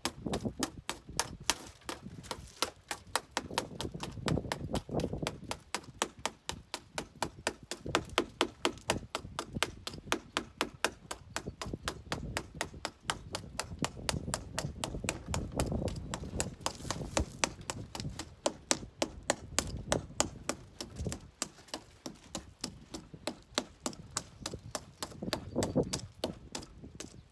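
Steady, even series of sharp knocks, about four a second, from tools striking at a car's front windshield as it is being taken out.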